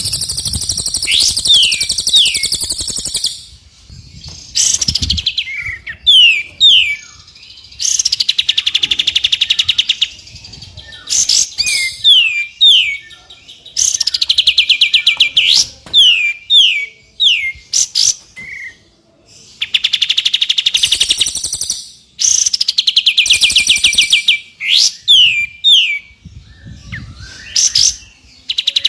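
Recorded songbird song played loud: rapid, dense trills lasting a second or two, each followed by two or three quick falling whistles, the phrase repeating about every five or six seconds.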